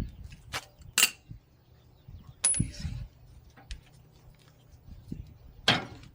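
A few sharp metallic clinks and clanks of wrenches and loosened shock-absorber bolts being handled, one about two and a half seconds in with a brief high ring.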